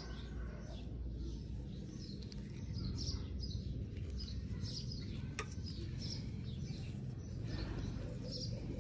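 Small birds chirping in short, high, repeated calls over steady low background noise, with a single sharp click about five seconds in.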